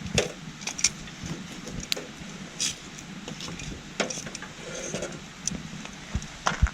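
Campfire of scrap-wood firewood burning, with irregular sharp pops and crackles about once a second, over the steady rush of a small stream.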